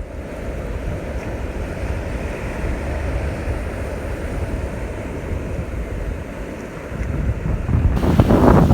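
Wind buffeting the microphone over ocean surf: a steady, muffled low rush. Near the end it turns abruptly louder and brighter.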